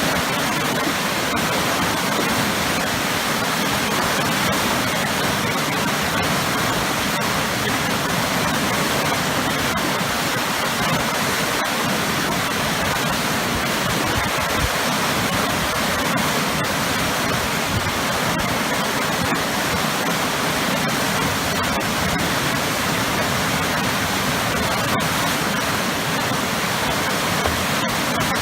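Waterfall with powerful churning water below it, a steady dense rush at an unchanging loudness.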